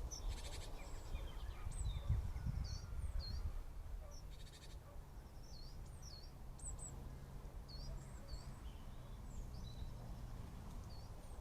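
Small garden birds calling: short, high chirps and falling notes repeated every second or so, with two brief rattling calls, over a low rumble.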